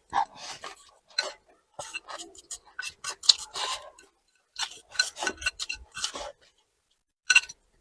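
Close-miked eating: chewing and crunching in irregular bursts of short clicks, with silent gaps between them.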